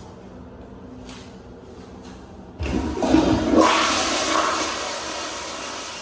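A commercial restroom fixture flushing: a sudden rush of water about two and a half seconds in that swells for about a second, then slowly dies away.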